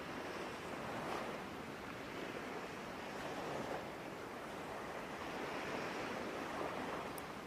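Soft, steady wash of ocean waves, swelling and easing gently.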